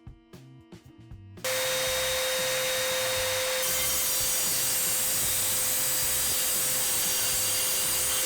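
Electric circular saw switching on about a second and a half in and running steadily through a test cut, its motor whine held at one pitch under the cutting noise.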